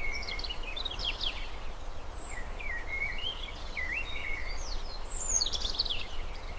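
Birdsong: a run of quick, varied chirps and whistles, some sliding down in pitch, over a steady low background rumble.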